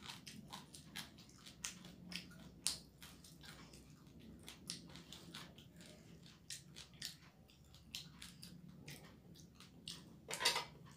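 Close-miked eating sounds: wet chewing, lip smacks and crunchy bites of rice and fried fish eaten by hand, many short crackles, with a louder burst near the end.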